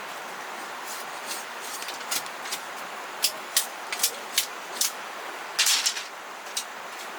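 A run of short, scratchy scraping or rustling noises at an uneven pace, with one longer one a little over five seconds in, over a steady hiss.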